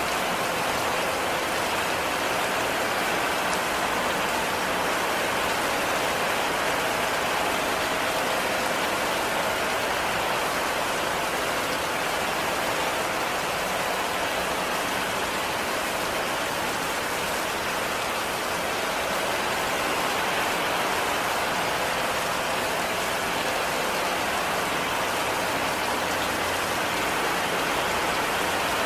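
Heavy rain falling steadily on a cabin, an even, unbroken hiss of drops with no pauses or single louder hits.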